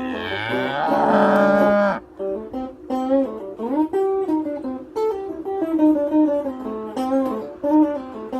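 Guitar music playing, with a cow mooing once, loudly, in the first two seconds: one long call that rises in pitch and then holds before stopping.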